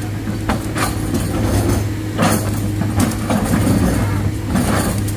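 Heavy diesel engine running steadily, with several short noisy rushes and scrapes over it.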